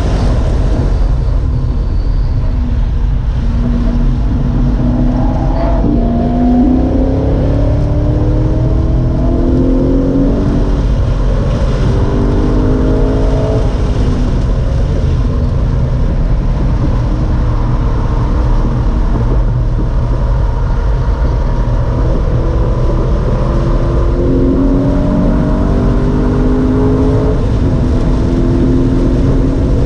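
Race car engine at full throttle on a lap, its pitch climbing again and again and then falling back as it shifts gears or brakes for corners, over a heavy, steady low rumble.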